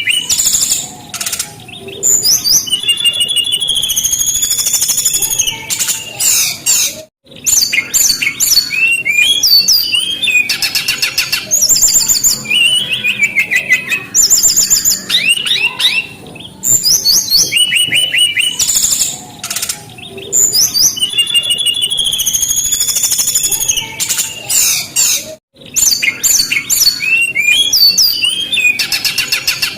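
Brown-chested jungle flycatcher (sikatan rimba dada coklat) singing continuously: a fast, varied run of high whistles, chirps and trills. The song breaks off briefly twice, once about a quarter of the way in and once near the end, and the same sequence of phrases comes round again.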